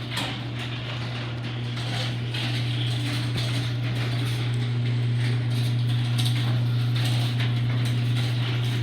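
LiftMaster 8165 chain-drive garage door opener running as it raises the door: a steady motor hum over a rattling, slapping chain, which the owner takes for a chain that needs tightening.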